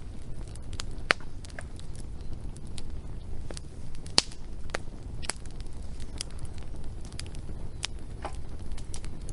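Wood fire crackling: sharp, irregular pops and snaps over a low steady rumble, the loudest snaps about one and four seconds in.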